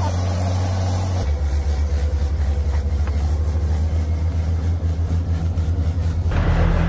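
A heavy vehicle's engine running, its low steady note changing about a second in to a rapid pulsing throb, with a loud rush of noise near the end.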